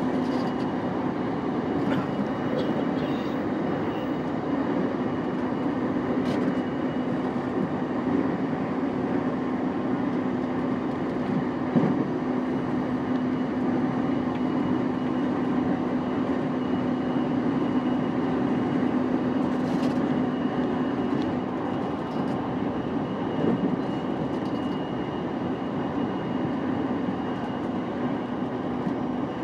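JR East E233-5000 series electric train running at speed, heard from inside the car: a steady rumble of wheels on rail with a constant motor hum and a faint high whine, and a few faint clicks.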